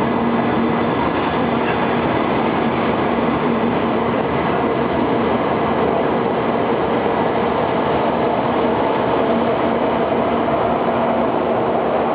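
Shinkansen Kodama train running steadily at speed: an even, unchanging rush of running noise with a faint steady hum underneath.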